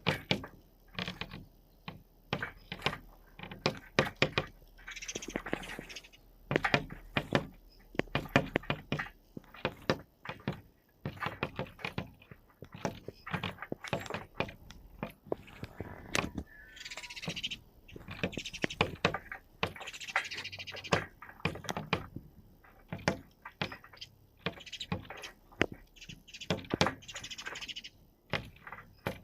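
House sparrows pecking and fluttering against window glass as they fight their own reflection: rapid, irregular taps on the pane, with bursts of wing flapping several times.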